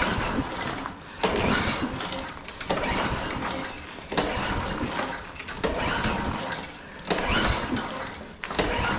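Lawn mower's small engine being pull-started again and again, a recoil-cord pull about every one and a half seconds, each cranking it over without it starting. It has good spark, so the owner suspects a fuel issue.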